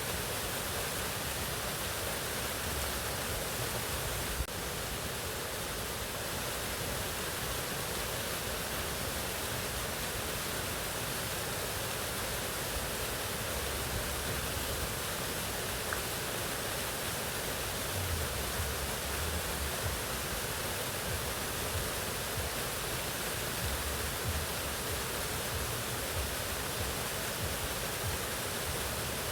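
Mountain waterfall rushing steadily, an even, unbroken hiss of falling water, with one faint click about four seconds in.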